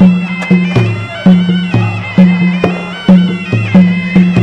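Traditional Khmer boxing ring music: a sralai reed oboe plays a held, bending melody over drums beating a steady rhythm of alternating low and high strokes, a little over two a second.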